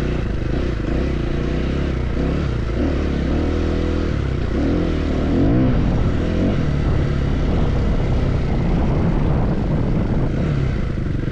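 Off-road motorcycle engine running under a rider's throttle, its pitch rising and falling as it revs up and down, over a steady rush of wind and riding noise.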